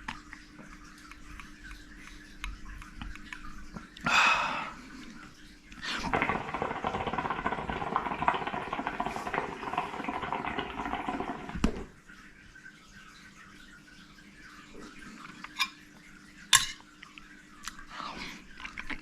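Close-miked eating sounds: a fork or spoon clicking on a plate and chewing of macaroni, with a longer run of crackly mouth and dish noise for about six seconds in the middle.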